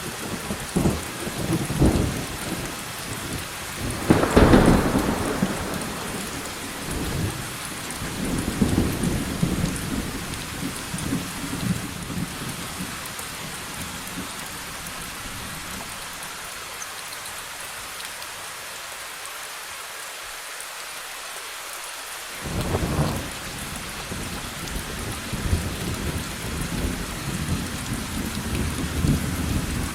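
Steady rain with rolling thunder. A loud thunderclap comes about four seconds in, followed by rumbling on and off. After a quieter lull, another clap comes a little after twenty seconds and the rumbles resume.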